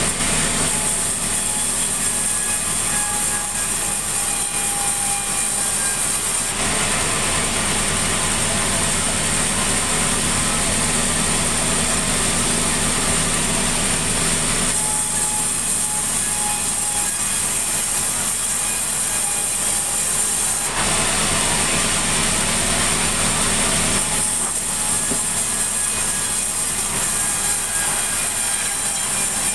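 Engine-driven sawmill saw running steadily and cutting sengon timber. Twice, for about eight seconds each, the sound turns harsher and hissier as the blade passes through the log.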